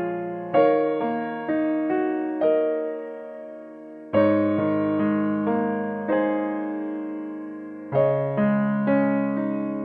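Slow, gentle solo piano music: soft chords and single notes, each struck and left to ring out.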